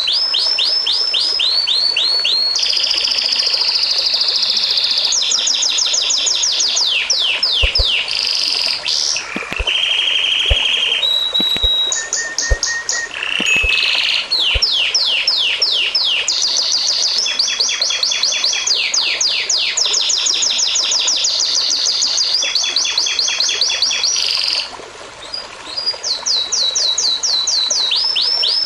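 Songbird singing a long, near-continuous song of rapid trills: fast runs of repeated sweeping notes, changing from one trill to the next, with a brief pause near the end.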